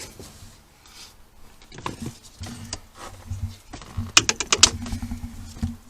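New cabin air filter being slid into its plastic housing behind the glove box: scattered plastic clicks, knocks and rubbing, with a quick run of about six clicks a little past halfway.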